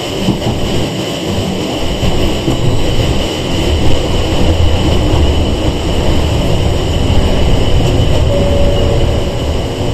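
Sangi Railway 101 series electric train (ex-Seibu 401 series) running, heard from inside the car: a steady rumble of wheels and running gear with a thin high whine above it, growing a little louder about a third of the way through.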